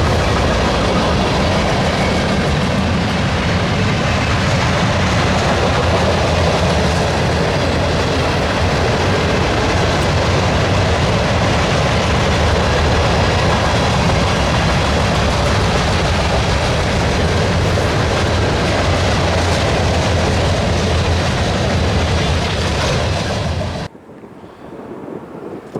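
Freight train passing close by, steel wheels rolling over the rail joints with a steady heavy rumble and clatter. About 24 seconds in the sound cuts off sharply to something much quieter.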